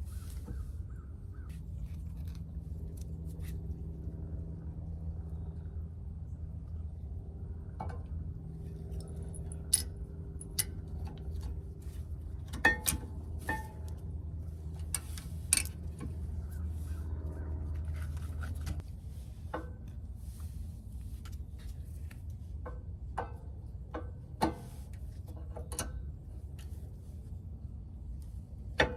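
Scattered metallic clinks and knocks of hand tools on car parts during brake and wheel work, over a steady low hum that fades out about two-thirds of the way through.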